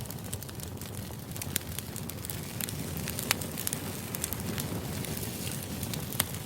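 Background white-noise ambience: a steady low rumble with many sharp crackles and clicks scattered irregularly through it.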